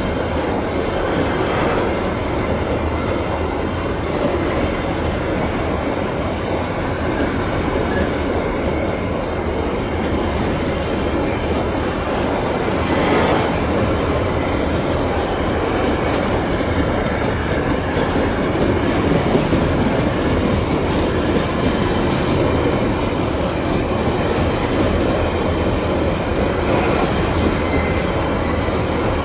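Babaranjang coal train's empty wagons rolling past on a curve, with a steady rumble and the clickety-clack of wheels over rail joints and faint wheel squeal.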